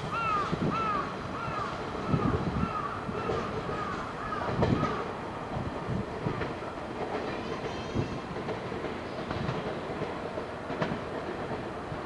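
Electric train rolling at the station, its wheels clattering over rail joints with a steady rumble. A crow caws about ten times in quick succession over the first five seconds.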